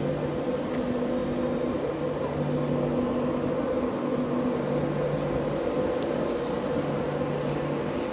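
Train at the station with a steady, even hum of several pitches. The lower tones cut in and out every second or two.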